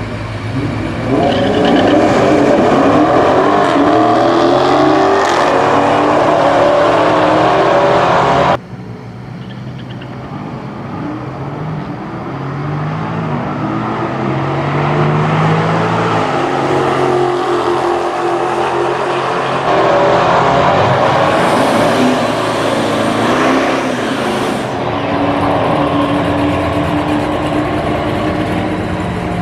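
Drag-racing muscle car engines at full throttle, rising in pitch as the cars accelerate down the strip. The sound cuts abruptly several times between clips.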